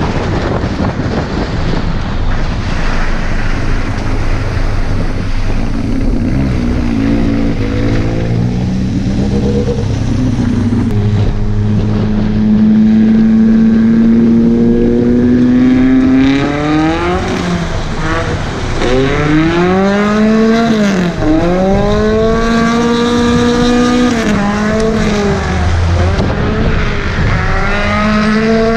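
Volvo 740 drift car's redblock four-cylinder engine driven hard on a dirt road, its revs climbing and dropping several times in quick swings in the second half, over a rough rushing noise of tyres and wind.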